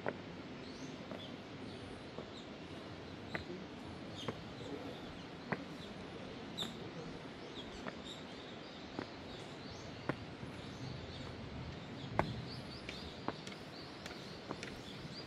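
Footsteps on a walking path, one sharp step about every second, with small birds chirping throughout.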